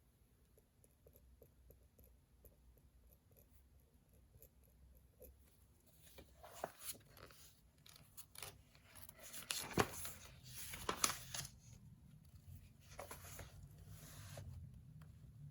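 Faint desk sounds of paper being handled: small ticks at first, then a run of short rustles and tearing-like sounds from about six seconds in, with one sharp click near the middle.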